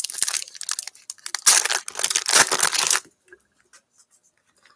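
Foil trading-card pack wrapper being torn open and crinkled, in two spells of tearing and crinkling: one in the first second, a longer one from about one and a half to three seconds in.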